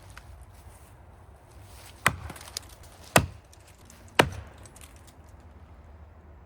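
An axe striking into a large maple trunk three times, about a second apart, each blow a sharp chop. These are hand-chopping strokes in a felling cut.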